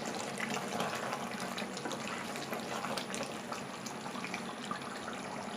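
Chicken biryani curry (salan) sizzling and bubbling in its oil in a pot after slow cooking on a low flame, a steady crackling hiss.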